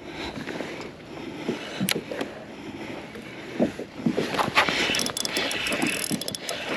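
Water splashing and irregular knocking and clicking on a fishing kayak, the clatter getting busier about four seconds in.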